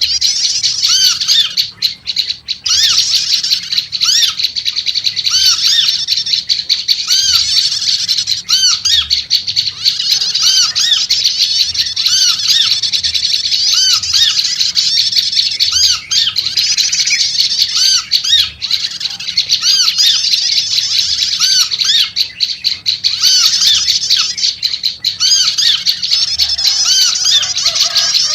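Prenjak lumut chattering busily and without pause: a dense run of high, quick repeated notes, with a lower arched note repeating about once or twice a second underneath.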